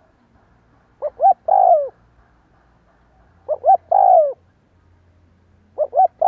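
Spotted dove cooing: three phrases about two and a half seconds apart, each two short coos followed by a longer coo that falls away at its end; the last phrase runs on past the end.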